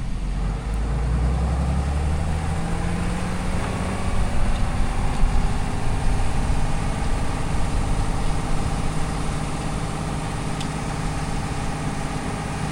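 Diesel pickup truck engine running steadily at a low, even pitch, growing slightly louder about four seconds in.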